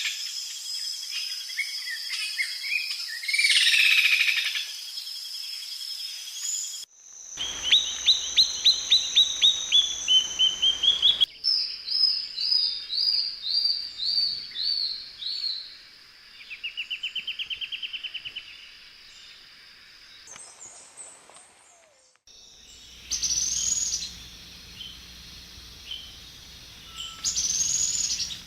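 Songs and calls of several different wild bird species, one short recording after another with abrupt cuts between them: a busy tangle of high chirps, then a fast series of about a dozen loud repeated notes, then a run of falling notes followed by a quick trill, and near the end a few separate loud calls.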